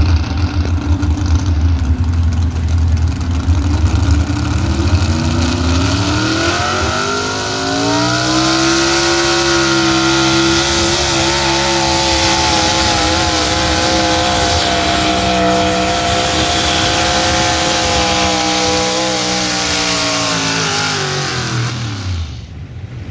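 Altered gas pulling truck's modified gasoline engine at wide-open throttle: a low rumble, then the pitch climbs over a few seconds and holds high and steady for about twelve seconds under load before falling away near the end as the throttle comes off.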